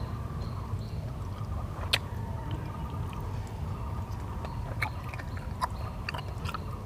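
A person biting into and chewing pieces of cooked mutton fat eaten by hand, with scattered short wet mouth clicks and smacks, the sharpest about two seconds in, over a steady low rumble.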